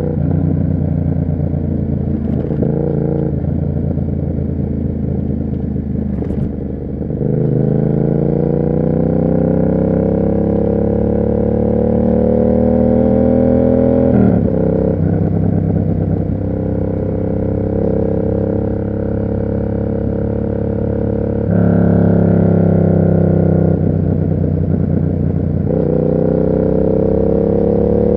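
Yamaha MT-07's parallel-twin engine through an SC Project aftermarket exhaust, riding along and pulling through the gears. The engine note climbs steadily and drops back at gear changes about seven, fourteen and twenty-six seconds in, and jumps higher and louder at about twenty-two seconds.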